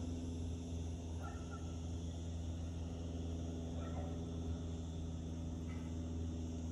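A steady low hum, with a few short, faint bird calls over it.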